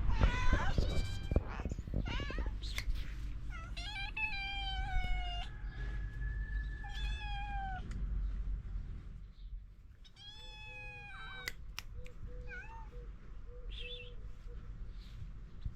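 Hungry stray cats meowing again and again: several drawn-out calls that fall in pitch, then a few short chirps near the end.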